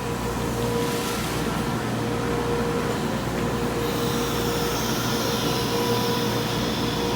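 Steady machine noise with a constant hum and whine, without let-up, from running shop machinery.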